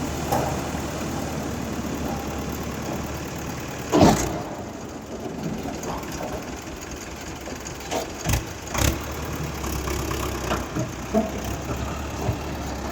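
Tractor diesel engine idling steadily. One loud knock comes about four seconds in, and two sharp clanks follow close together near eight seconds.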